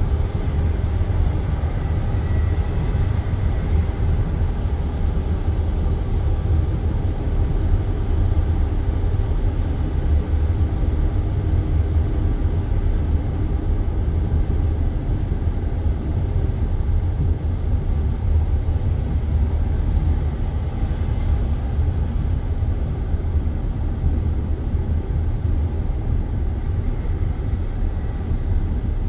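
Passenger train running at speed, heard from inside the carriage: a steady, unbroken rumble of wheels on rails.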